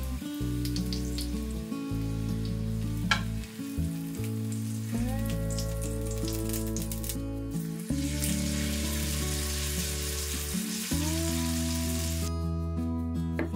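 Zucchini fritters sizzling as they fry in hot oil in a frying pan, with one sharp tap about three seconds in. The sizzle grows louder about two-thirds of the way through. Background music with sustained notes runs underneath.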